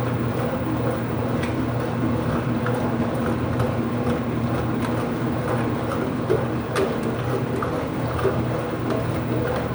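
Ipso washing machine filling with water: a steady rush of water over a low hum, with a few faint clicks.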